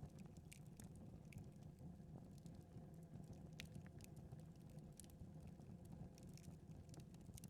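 Faint crackling of a wood fire in a fireplace: irregular small pops and snaps over a low, steady rumble.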